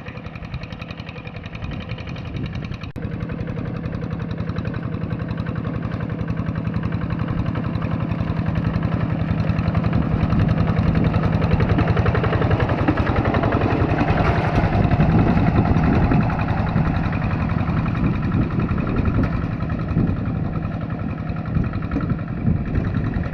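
Tractor engine running steadily with a rapid chugging pulse, growing louder over about the first ten seconds and then holding.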